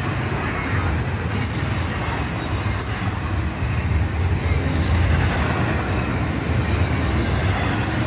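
Freight train rolling past on the rails, a steady low rumble.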